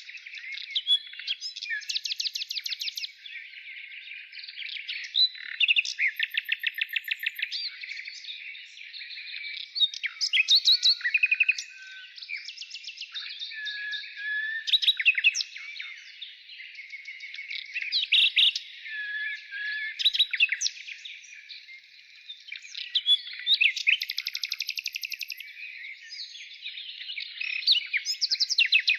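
Birds singing: phrases of rapid trills and sharp chirps, loud bursts every few seconds with quieter twittering between.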